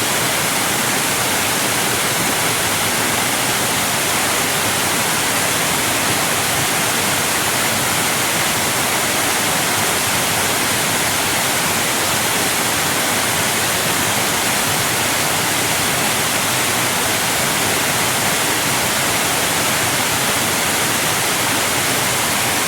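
Steady rushing of water: an even, unbroken hiss that stays at one level throughout.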